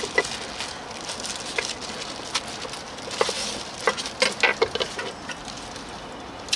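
Food sizzling on a hot griddle, with irregular clicks and taps of utensils that come thicker about three to five seconds in.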